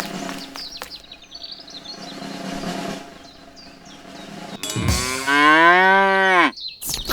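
A cow mooing once: one long call about five seconds in, rising and then falling in pitch, with faint bird chirps earlier.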